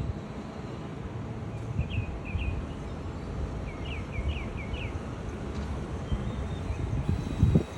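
Small birds chirping: short chirps that rise in pitch, two about two seconds in, then a quick run of four about a second later, over a steady low rumble. A louder low thump comes near the end.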